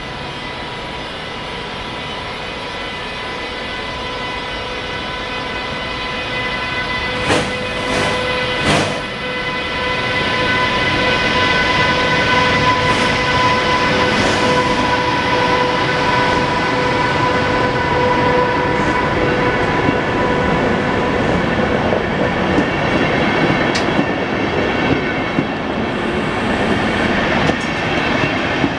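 DB Class 101 electric locomotive pulling a line of InterCity coaches away from the platform, getting steadily louder as it passes, with a steady whine. Three sharp knocks come about seven to nine seconds in, and the coaches' wheels then roll by with clicks over the rail joints.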